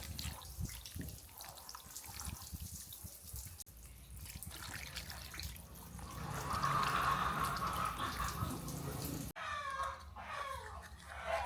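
Water splashing and dripping as a model car is rinsed, in short clips cut together. A denser steady stream of water runs through the middle, then gives way abruptly near the end.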